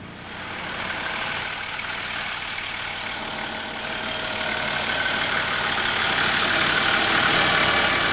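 Street traffic: vehicle engines running, growing louder, with a brief high-pitched squeal near the end.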